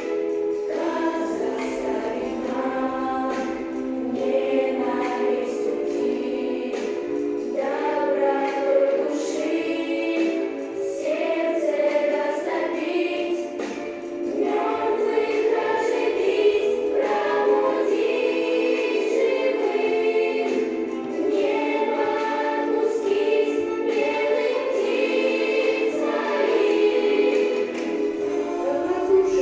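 Children's choir singing a song together, with sustained sung notes and music.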